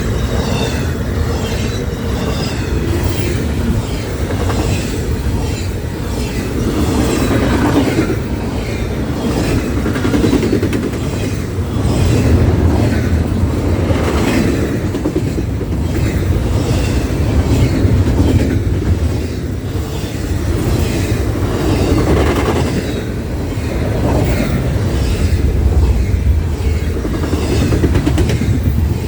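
Railroad cars rolling past, wheels clicking over rail joints in a repeating clickety-clack over a steady low rumble.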